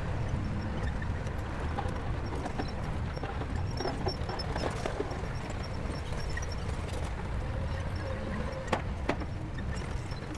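Shantui bulldozer's diesel engine running with a steady low rumble, with scattered metal knocks and clanks, including two sharp knocks close together near the end.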